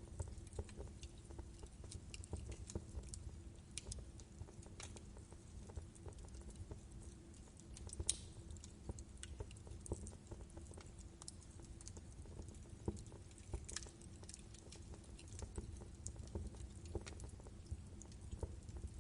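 Logs burning in a fireplace, crackling with irregular sharp pops and snaps over a low steady rush of the flames. A louder pop comes about eight seconds in and another near fourteen seconds.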